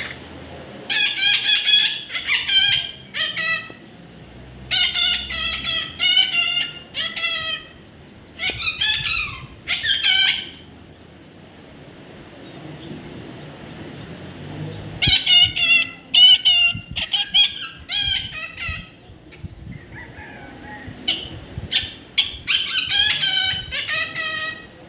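Parrot calling in bursts of short, harsh, wavering squawks, with groups of calls and pauses of a few seconds between them.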